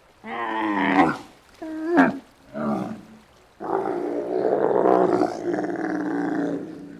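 Giraffe calling: three short calls, then a longer, rougher call of about three seconds.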